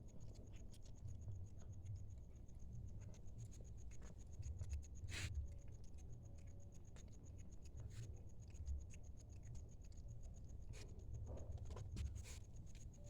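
A cat eating from a plate: faint scattered clicks and light scratching as it picks at its food and nudges the plate, with one sharper click about five seconds in.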